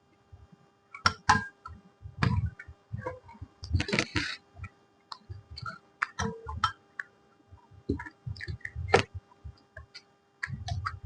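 Close-miked eating sounds of someone chewing puri and potato curry: irregular wet mouth clicks, smacks and soft crunches, with a louder crunch about four seconds in. A faint steady hum runs underneath.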